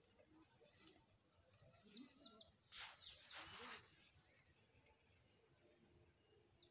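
Small birds chirping in quick runs of short, high, falling notes, loudest about two to three seconds in and starting up again near the end, with two brief rustling noises around three seconds in.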